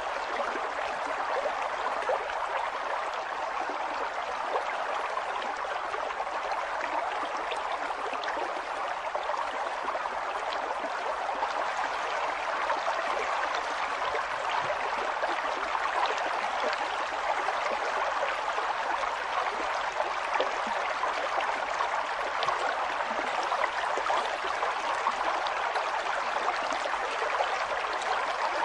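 River water flowing, a steady rushing sound with fine splashes and gurgles running through it.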